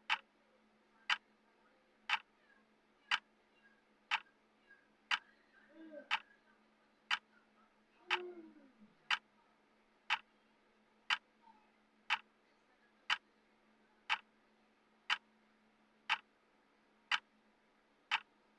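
Clock-tick sound effect of a countdown timer, one sharp tick every second, with a faint steady hum underneath.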